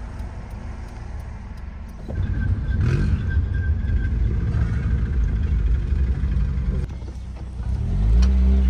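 Car engine and road noise heard from inside a moving car, with an engine revving up about three seconds in. The sound grows louder and quieter in steps where the clips change.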